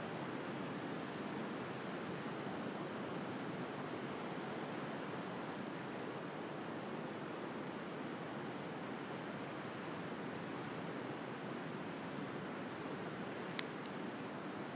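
Steady wash of sea waves, with a few faint crackles from a wood bonfire and one sharper pop near the end.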